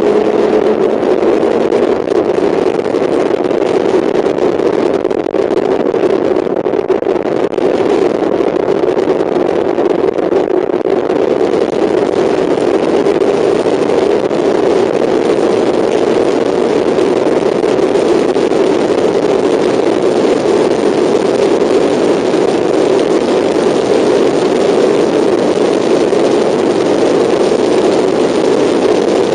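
Mazda MX-5's four-cylinder engine running hard at high revs under racing load, a loud steady drone heard from inside the car.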